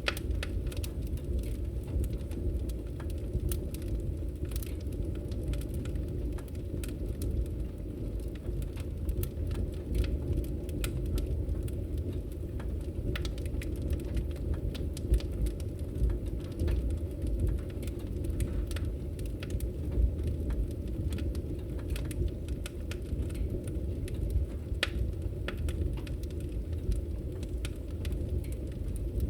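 Wood fire crackling in a fireplace: a steady low rumble of the flames with frequent sharp crackles and pops at irregular moments.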